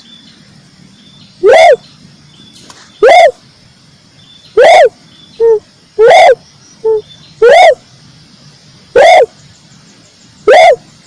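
A red dove (tekukur merah) repeatedly giving a short coo that rises and falls, seven times at an even pace of about one every 1.5 seconds, with two shorter, lower notes slipped in near the middle. Loud, lure-recording style.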